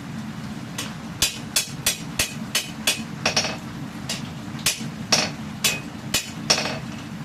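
Hand hammer striking a hot katana blade on an anvil to forge the bevel. About fifteen sharp blows come at two to three a second, starting about a second in, some with a short metallic ring, over a steady low rumble.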